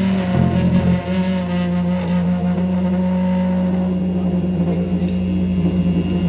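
Live rock band holding a sustained, droning chord on amplified guitar and bass, the notes ringing on with little beat.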